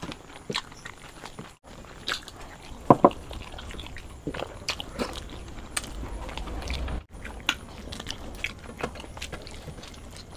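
Close-miked eating sounds of parathas and dum aloo eaten by hand: chewing and biting, with many scattered small clicks. There is one louder short sound about three seconds in.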